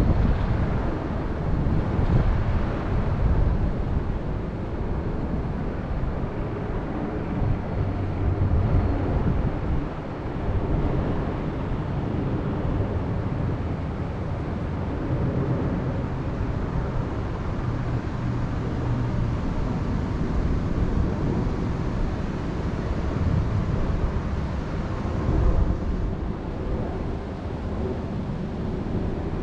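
Wind blowing in gusts, with a low rumble of wind buffeting the microphone.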